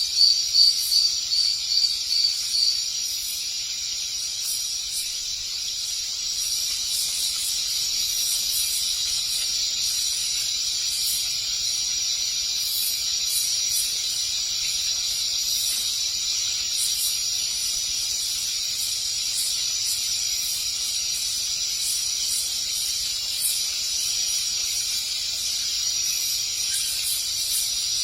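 A steady high-pitched hiss throughout, with a quick run of high chirps, about three a second, over the first three seconds.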